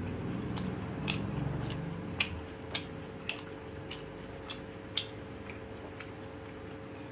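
A person chewing a mouthful of rice and shrimp with the mouth closed, with sharp, wet smacking clicks about twice a second over a faint steady hum.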